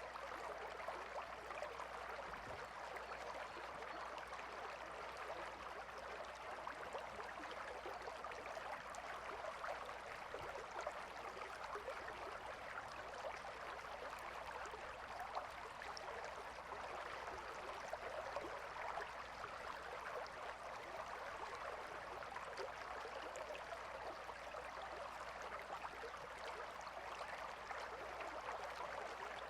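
A calm river flowing steadily, a continuous gentle babble of water over stones.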